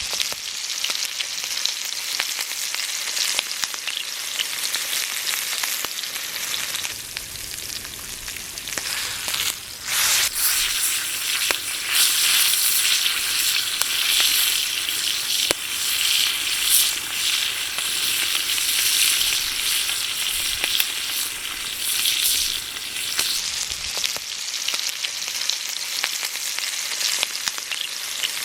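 Steak sizzling and spitting on a hot iron griddle over a wood fire, with scattered pops. The sizzle gets louder about ten seconds in and eases off again near the end.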